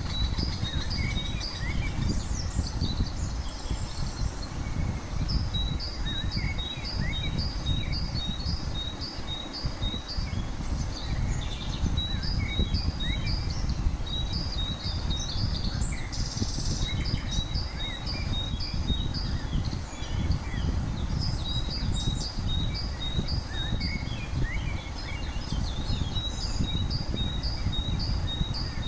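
Birds chirping over and over, about two chirps a second, above a steady low background rumble.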